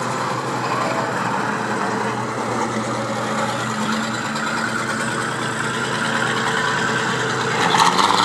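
Show cars driving slowly past one after another, engines running at low speed with a steady low hum, louder near the end as a vehicle passes closer.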